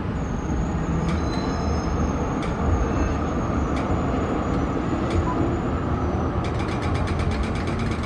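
Street traffic rumbling steadily, with a thin high-pitched squeal that holds for about six seconds and a few sharp clicks; near the end a fast, even ticking sets in.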